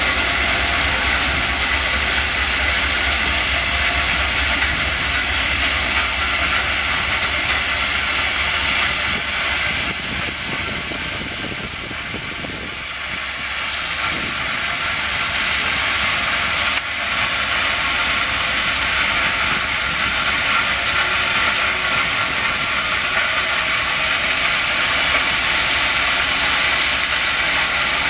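Train running: a steady, noisy hiss over a low rumble, easing off slightly around the middle and then back up.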